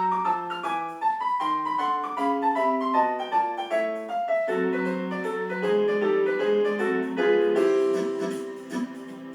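Piano introduction to a song: a melody of short notes stepping downward over chords, growing fuller about halfway through and softening near the end.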